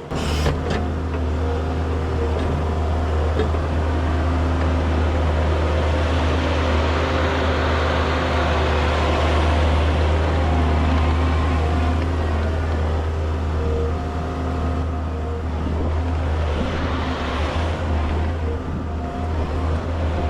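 Skid steer loader's engine running steadily at working revs with a low, even drone, as the machine operates.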